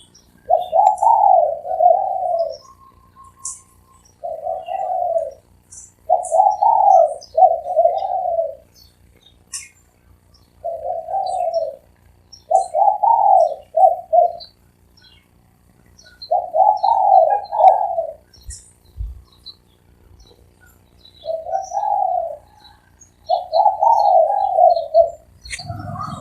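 Spotted dove cooing its rhythmic, rolling phrases over and over, about eight phrases with short pauses between them, with faint high chirps from small birds in the background.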